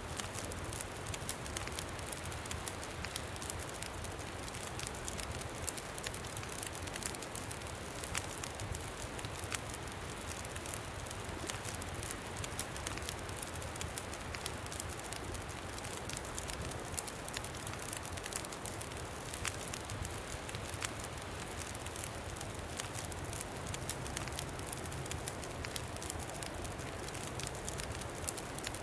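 Campfire burning with frequent small crackles and pops over a steady hiss, with a low wind rumble underneath.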